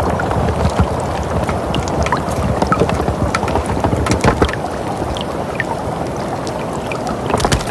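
Winter ambience soundscape: a steady rushing, wind-like noise with frequent sharp crackles and pops scattered through it, thickest about four seconds in and again near the end.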